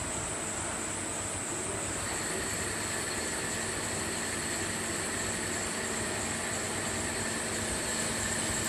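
CNC machine tool running: a steady mechanical whir with a constant high whine. A second, higher whine joins about two seconds in.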